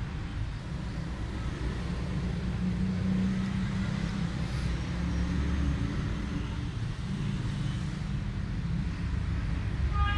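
Steady low mechanical rumble with a faint held hum, like machinery or a motor running.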